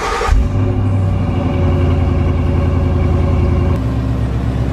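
Ford Mustang GT's V8 just after starting: it flares as it catches, then holds a steady fast idle that steps down to a lower idle a little before the end.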